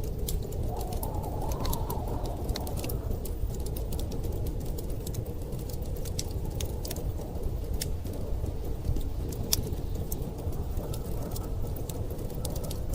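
A wood fire crackling with many small sharp pops and clicks, over a steady low rumble of storm wind that swells briefly about a second in.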